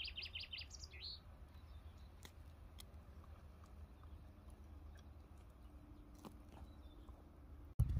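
A songbird trilling: a fast run of short high chirps that ends about a second in, followed by one more short call. After that only a faint low outdoor rumble with a few faint ticks.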